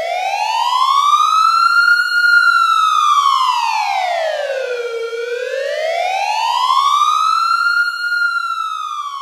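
Emergency vehicle siren sounding a slow wail: the pitch climbs for about two seconds, sinks back to its low point about five seconds in, climbs again and starts falling near the end.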